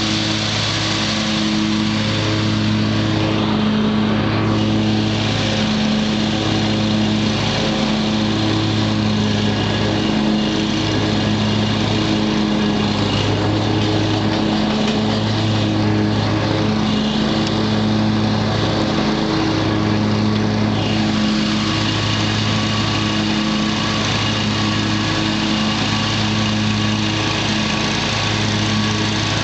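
A 20-horsepower Kohler Command engine on an Exmark Turf Tracer commercial walk-behind mower runs steadily, shortly after a cold start.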